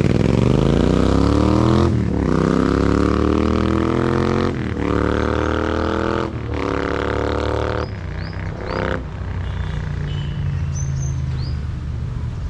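Royal Enfield Interceptor 650's parallel-twin engine revving through an AEW aftermarket exhaust with the dB killer removed: four revs that climb and drop back sharply, then two quick blips, then settling to a steady idle.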